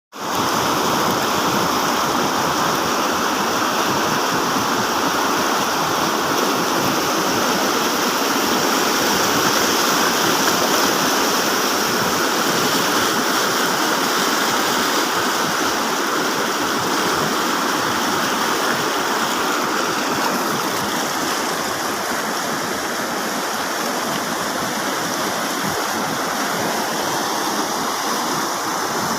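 Heavy rain falling steadily, an even rushing hiss that eases slightly after about twenty seconds.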